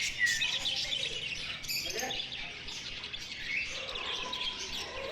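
A flock of small caged birds chirping and tweeting together in a continuous busy chatter of many short, high calls.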